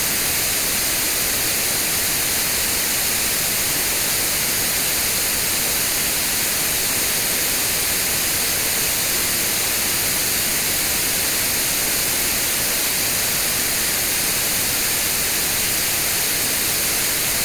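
Synthetic white noise test signal: a steady, even hiss, brightest in the treble, with no change in level.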